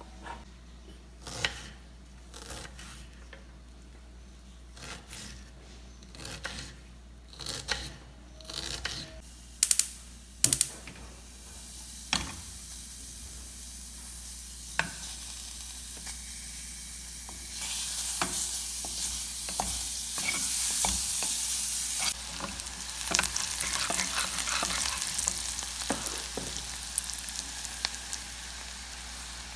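Knocks and clicks for the first ten seconds or so, then meat sizzling over the heat, a steady hiss that grows louder about eighteen seconds in, with occasional pops.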